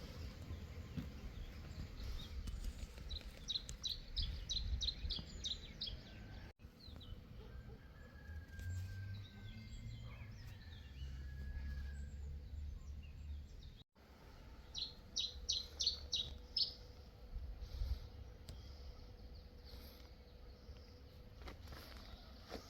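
A small songbird singing a quick run of about eight short high notes, then repeating the phrase about ten seconds later, over a low outdoor rumble.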